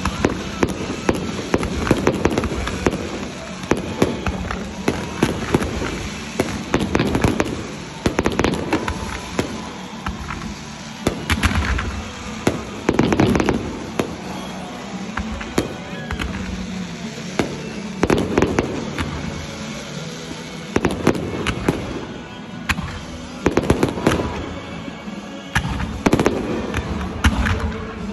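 Fireworks show: aerial shells launching and bursting overhead one after another in uneven volleys, with crackling stars between the bangs and short lulls between the volleys.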